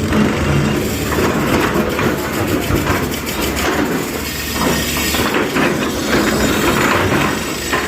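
Diesel construction machinery working, its engine running under a dense rattling and clanking.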